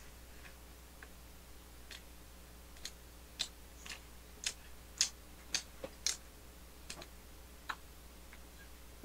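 Faint eating sounds: a dozen or so short, irregular mouth clicks and smacks from chewing a mini hamburger, bunched in the middle few seconds.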